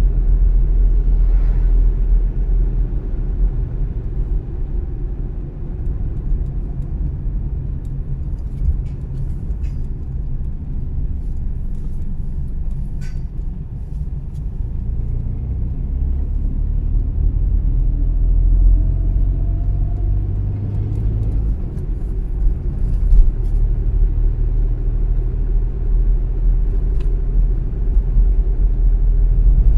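Car driving along, a steady low rumble of engine and tyres on the road, with a faint rising whine about two-thirds of the way through as it picks up speed.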